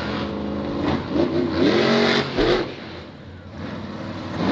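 Monster truck engine running and revving, its pitch rising and falling a couple of times, then dropping back quieter in the second half.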